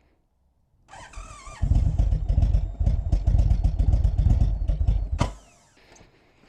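Indian Springfield's V-twin turning over on the electric starter: a short whine about a second in, then about three and a half seconds of even, pulsing cranking that cuts off with a click. It is a failed start attempt, a bike that is slow to fire although it has fuel.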